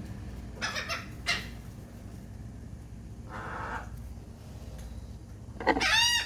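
Birds calling while waiting to be fed: a couple of short calls about a second in, a harsher call around three and a half seconds, and a loud, rapid run of rising-and-falling calls near the end.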